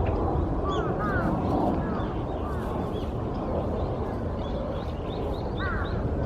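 Short, hoarse bird calls, several in quick runs about a second in and again near the end, with fainter high chirps between them, over a steady low background rumble.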